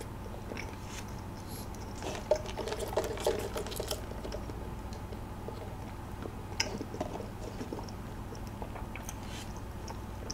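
Faint chewing and mouth sounds from eating a soft glazed donut with whipped cream, with a few soft clicks scattered through, a little busier from about two to four seconds in.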